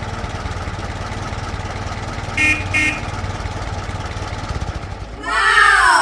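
Steady low engine-hum sound effect with two short car-horn toots about two and a half seconds in, then a louder pitched tone that slides down near the end.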